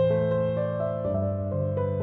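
Background relaxation music: slow, gentle piano-like keyboard notes over a held low bass.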